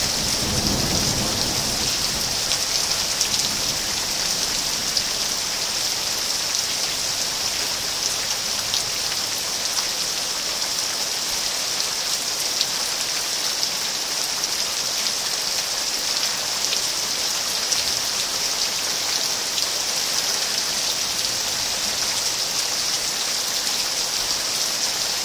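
Steady rain falling at the tail end of a hailstorm, an even hiss with scattered small ticks of drops striking surfaces. A brief low rumble sounds in the first second or two.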